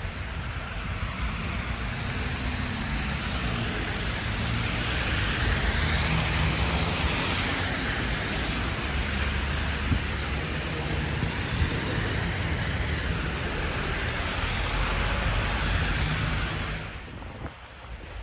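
City street traffic: vehicles passing with engine hum and tyre noise. The noise swells through the middle and drops off sharply near the end.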